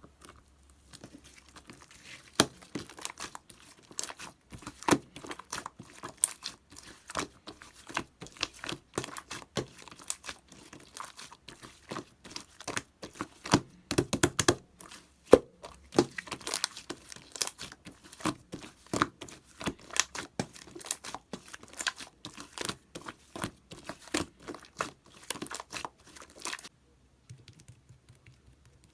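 Clear slime being squeezed, poked and stretched by hand, giving a dense run of sticky clicks and crackles that stop near the end.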